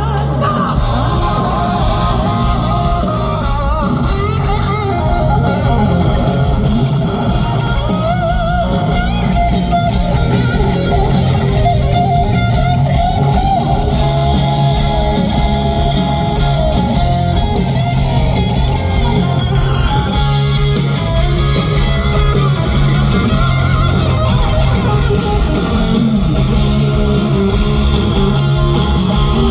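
Hard rock band playing live and loud, with no vocals: a lead electric guitar plays sustained, wavering high notes over distorted rhythm guitar, bass and drums.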